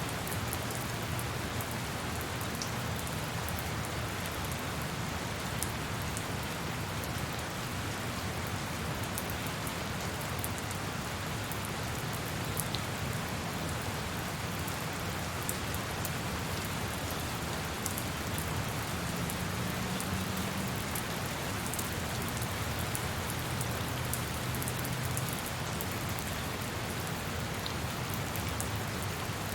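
Steady rain falling on a surface, with the fine patter of individual drops over an even hiss.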